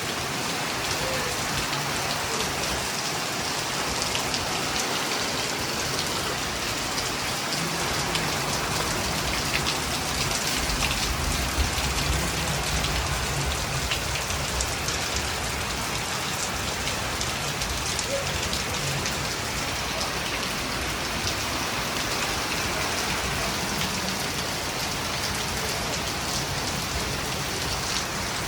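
Steady rain falling and pattering on surfaces, a dense even hiss with fine drop ticks. A low rumble swells about ten seconds in and fades after a few seconds.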